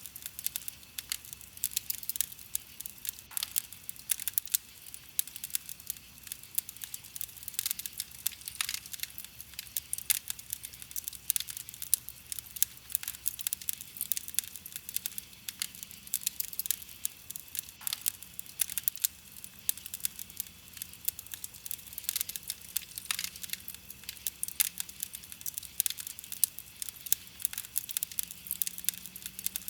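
Wood fire crackling steadily, with dense irregular crackles and sharper pops throughout.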